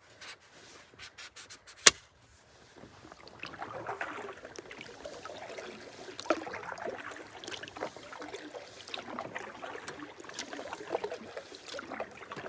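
A few sharp knocks of a paddle against the canoe, then the hull of a basalt and carbon innegra solo canoe scraping and sliding as it is pushed with the paddle over an obstruction in shallow water.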